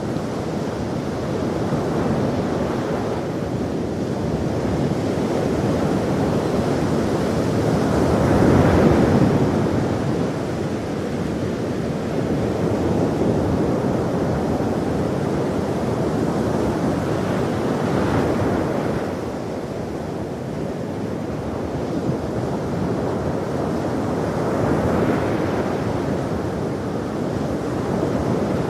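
Ocean waves breaking on a shore in a continuous wash of surf, with swells building and falling away every several seconds; the biggest breaks about a third of the way in.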